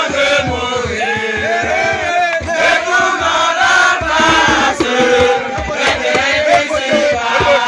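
A group of people chanting and singing together in unison, with many overlapping voices and frequent short low knocks underneath.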